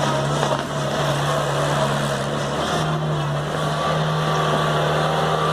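Engine of a homemade swamp truck running steadily under load, its pitch stepping up slightly a little under three seconds in.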